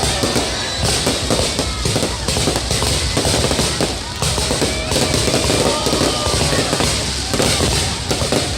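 Fireworks display: a dense, irregular run of bangs and crackling bursts with no break, with crowd voices and exclamations mixed in.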